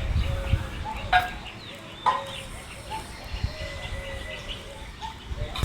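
Peafowl calling: a run of short repeated notes, with two sharper, louder calls about one and two seconds in.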